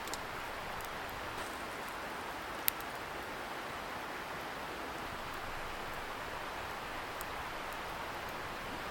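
Wood campfire crackling with a few sparse pops, one sharp pop about two and a half seconds in, over the steady hiss of a distant river.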